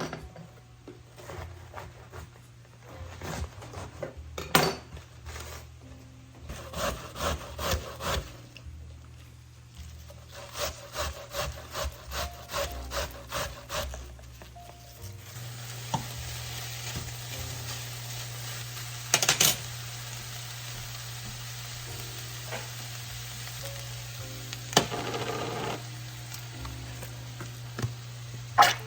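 Spoon scraping and stirring shredded chicken in a pan in quick repeated strokes. About halfway through it gives way to a steady sizzle as the chicken heats in water and barbecue sauce, with a couple of sharp knocks of the utensil against the pan.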